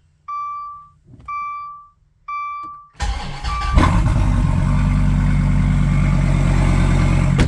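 A cockpit warning chime sounds three times about a second apart, then the 2016 Dodge Viper's V10 cranks and fires about three seconds in on a cold start, catching at once with a brief rev flare and settling into a steady idle.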